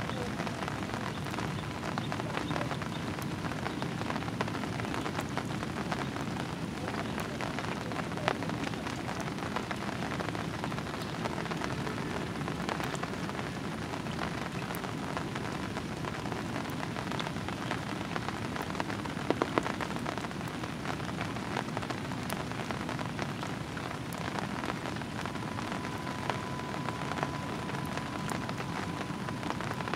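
Heavy rain falling steadily, a dense patter of drops, with a few sharper knocks about 8 and 19 seconds in.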